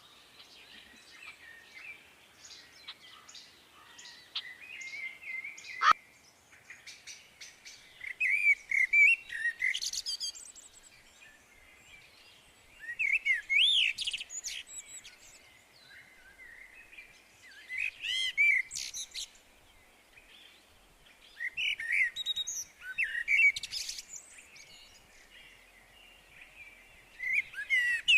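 A bird singing in short warbling, chirping phrases, one about every four to five seconds, with fainter chirps between them.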